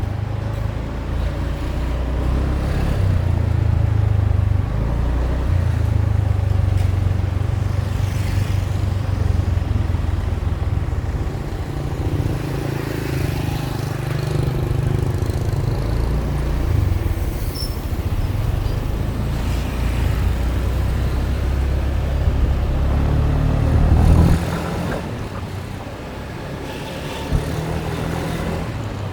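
Motorbike engine running under way, a low drone that steps up and down in pitch as the throttle and gears change. It eases off and drops in level about 24 seconds in.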